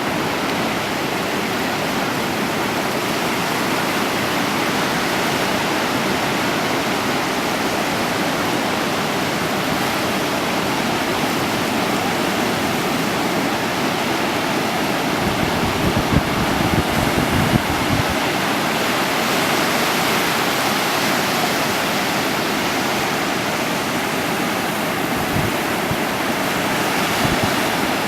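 Steady rushing of sea surf and water around a canoe, with a run of low thumps about halfway through and a few more near the end.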